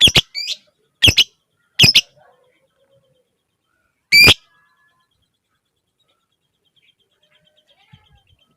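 Lovebird giving short, shrill, piercing calls, a quick cluster in the first two seconds and one more about four seconds in, followed near the end by a faint, rapid ticking chatter of about ten ticks a second.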